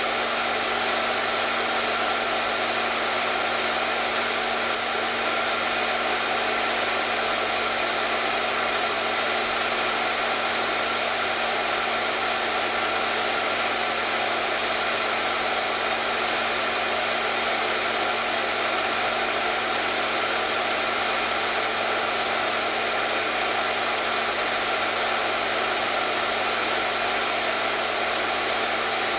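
Hair dryer running steadily: an even rush of blown air with a constant motor hum.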